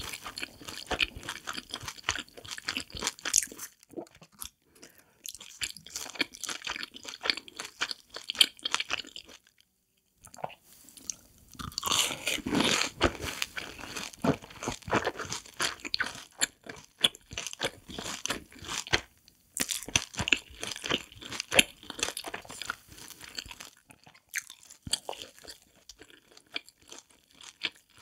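Close-miked chewing of fried cheese balls, crunching through the crisp crust, stopping briefly a few times.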